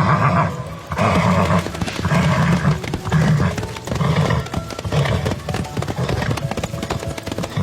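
Horse sound effect: hooves clip-clopping in a steady rhythm, with a neigh at the start.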